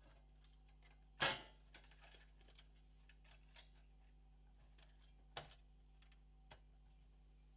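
Small clicks and taps of hands working on a PS4 Pro's opened insides, with a sharper knock about a second in and another about five seconds in, and faint ticks between, over a low steady hum.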